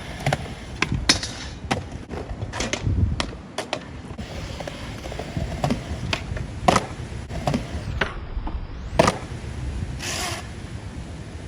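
Skateboard on Powell Peralta Dragon Formula urethane wheels rolling over wet skate park concrete with a steady low rumble, broken by a run of sharp clacks from the board: tail pops, landings and trucks striking the ground.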